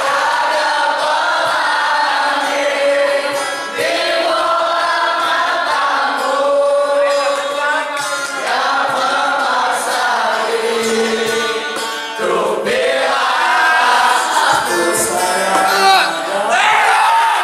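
Many voices singing together, loud and steady, like a group singing or chanting in unison.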